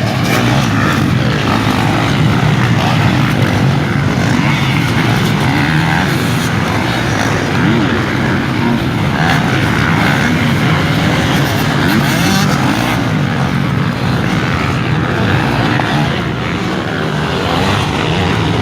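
Motocross motorcycle engines revving up and down as bikes race around the track, loud and continuous.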